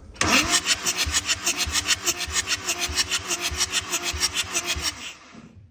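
BMW M47 2.0 four-cylinder diesel being cranked on the starter, with an even chug of about six or seven beats a second over the starter's steady whine, for about five seconds without firing, then stopping. The engine has no compression on the third and fourth cylinders from a blown head gasket between them.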